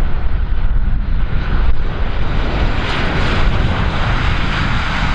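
Airliner engines running: a steady, loud rumble of aircraft engine noise.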